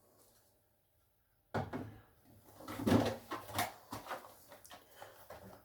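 Knocks and clatter of items being moved about on the shelves of a kitchen fridge: one sharp knock, then a run of uneven bumps and rattles.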